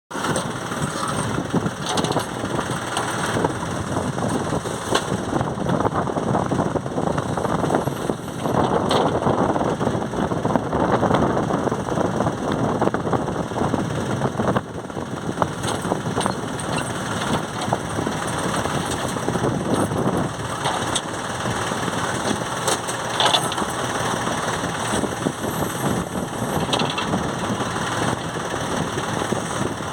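JCB loader's diesel engine running steadily under work, with a few short knocks scattered through.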